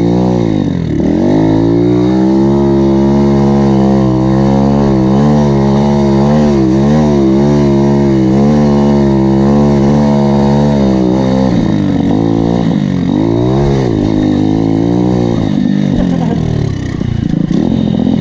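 A 140cc Chinese pit bike's single-cylinder four-stroke engine running hard under throttle. Its pitch drops and climbs again about a second in, holds fairly steady, then rises and falls several times between about twelve and fifteen seconds as the throttle is rolled on and off.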